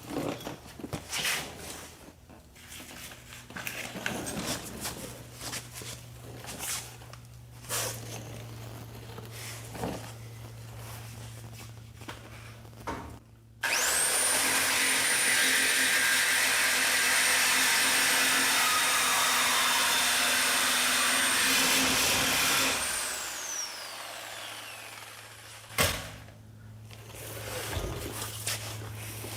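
Reciprocating saw (Sawzall) cutting out an exhaust pipe. It starts abruptly about 14 seconds in, runs steadily with a high whine for about nine seconds, then its motor winds down with a falling whine. Before it there are scattered metallic clanks, and a sharp knock comes near the end.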